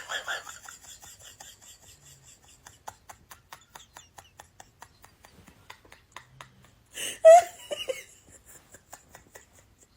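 Rapid short scratching or rasping strokes, about two to three a second, with a brief louder voice-like cry about seven seconds in.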